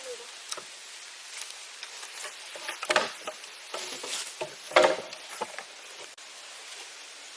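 Irregular rustling and light knocks, with a couple of louder knocks about three and five seconds in.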